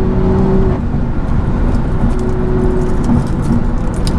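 Car cruising with the window down: a steady engine drone under heavy wind buffeting and road noise, with a few faint ticks near the end.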